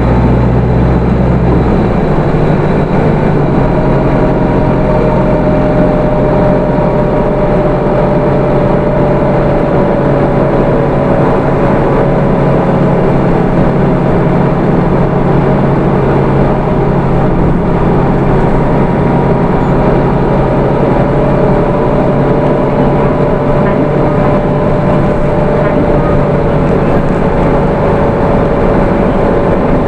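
Hino Rainbow II (SDG-KR290J1) city bus under way, its 4HK1 four-cylinder diesel and road noise running steadily with a thin, even whine over them. The engine note shifts about two seconds in.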